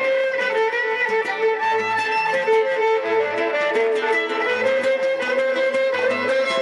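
Instrumental music: a violin playing a held, sustained melody over steady rhythmic guitar accompaniment.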